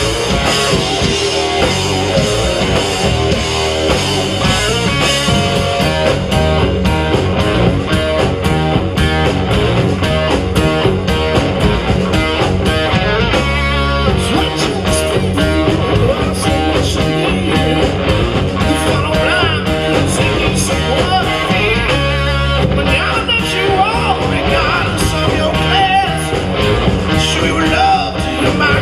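Live rock band playing loud, with distorted electric guitars, bass and drums, and sung vocals over them.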